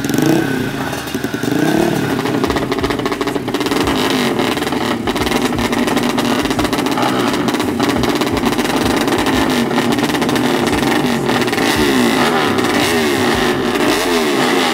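Motorcycle drag-bike engines revving at the start line, blipped over and over so the pitch sweeps up and down with no break.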